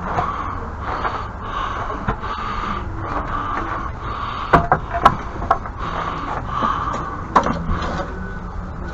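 A steady rumbling noise with a few sharp knocks about halfway through.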